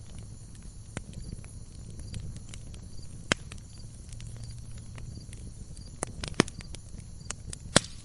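Wood logs burning in a fireplace, crackling: a low rumble of flame with scattered sharp pops, a few louder ones, the loudest near the end.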